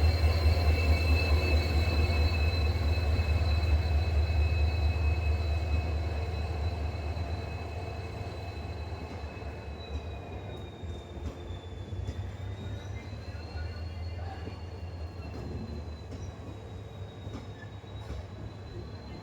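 Passenger train rolling on the rails with a low rumble that fades away over the first several seconds, while a high, thin wheel squeal runs on, wavering slightly in pitch.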